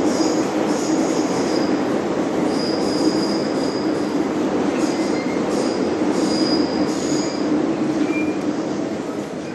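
MTR Island Line train running along the track: a steady rumble of wheels and running gear, with short high-pitched wheel squeals coming and going. The noise eases off near the end.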